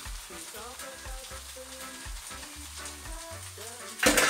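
Potato rösti frying in a pan, a steady sizzle. A brief loud clatter comes near the end.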